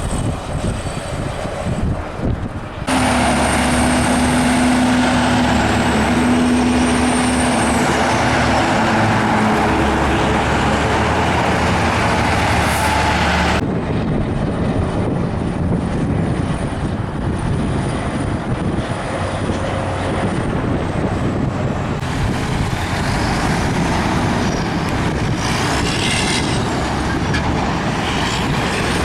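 Heavy trucks driving past on a highway: diesel engines running and tyres on pavement. The sound changes abruptly about three seconds in and again about halfway through, with a steady engine note strongest in between.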